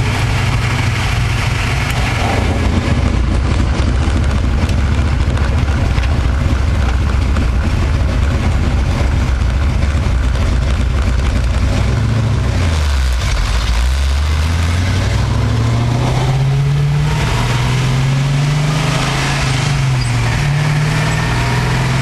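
The 1969 Camaro's 427 cubic-inch small-block Chevy V8, heard from inside the cabin while driving. It drones steadily, then drops in pitch about twelve seconds in as it slows, and climbs back up over the next few seconds as it accelerates.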